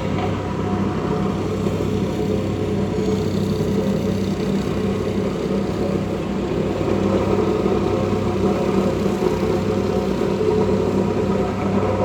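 A motor vehicle's engine running steadily, with an even drone throughout.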